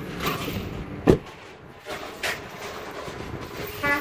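A single dull thump about a second in, like something knocking against a car, among a few fainter scraping noises; a short pitched beep begins right at the end.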